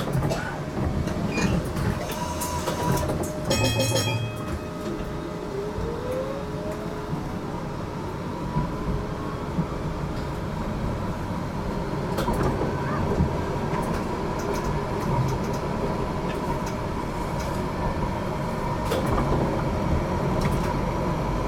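Interior of an HTM GTL8 articulated tram running on rails: a steady rumble of wheels and running gear. A brief rapid run of clicks comes about three and a half seconds in. About six seconds in, a traction-motor whine rises steadily in pitch as the tram gathers speed, then holds at a steady pitch.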